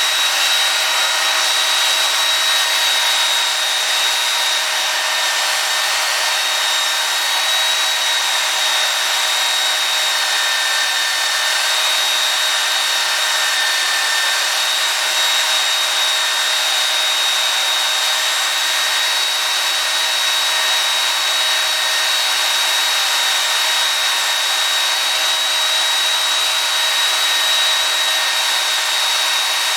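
Wet belt sander running steadily with a high whine, grinding the edge of a piece of mirror glass.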